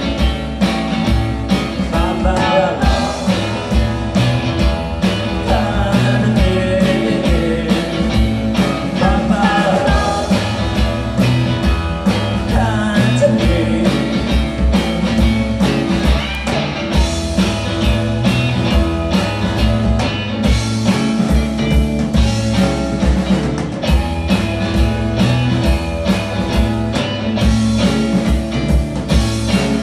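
A rock band playing a blues-rock song live: a steady drum beat under electric guitar and bass, with singing.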